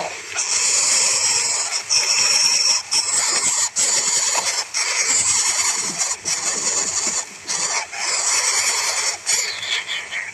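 High-pitched animal squealing, loud and nearly unbroken, in long stretches separated by brief pauses about once a second.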